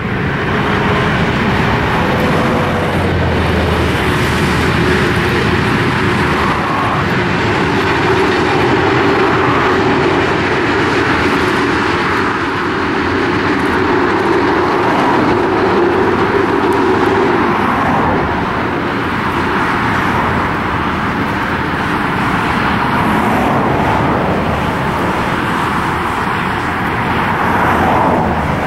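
Diesel locomotives NSW 42-class 4204 and Victorian B-class B65 running loudly as they pass with a train. Their engines drone steadily over the noise of wheels on rail.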